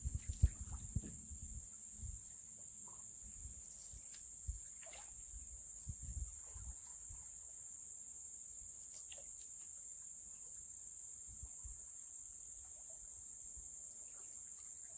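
Steady high-pitched chorus of insects from the surrounding woods, with a few low dull knocks in the first second and again around five to six seconds.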